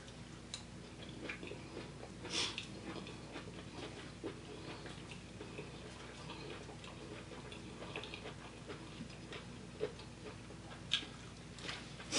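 Close-miked chewing by a person eating with her hands: scattered wet mouth clicks and smacks over a low steady hum, with louder smacks about two and a half seconds in and again near the end.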